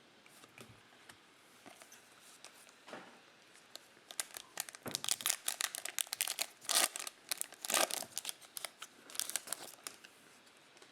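Plastic trading-card pack wrapper crinkling and tearing open, with a few light handling ticks first and a dense run of crackling from about four seconds in.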